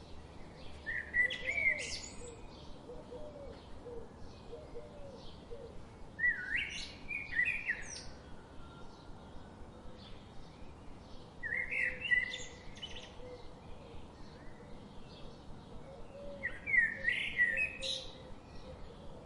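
Birdsong: one bird sings a short, fast song phrase four times, about every five seconds, over faint chirping from other birds.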